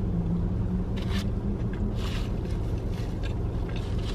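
Close-up eating sounds of a person chewing a bite of a fast-food sandwich, with a few short crackling sounds, over a steady low hum inside a car.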